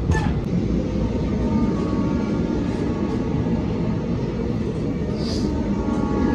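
A DEMU passenger train running slowly and gathering speed: a steady low rumble of the coach and wheels on the track, with a faint steady whine from about two seconds in.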